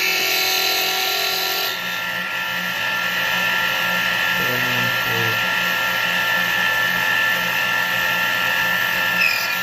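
Small metal lathe running steadily with a constant motor whine while a boring bar takes a hand-fed cut inside a spinning aluminum ring wetted with cutting fluid. A brief squeal sounds in the first two seconds and a short one about five seconds in.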